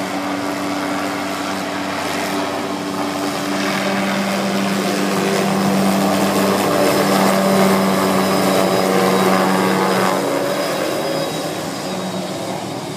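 Helicopter flying over, its rotor and engine growing louder for several seconds and then fading as it moves away.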